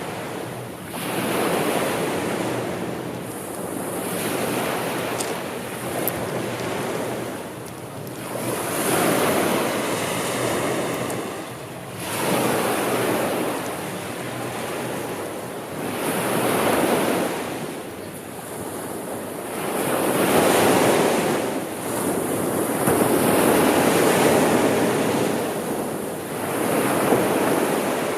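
Sea waves washing onto the shore, the rush of surf swelling and fading in a slow, steady rhythm, a new wave about every three to four seconds.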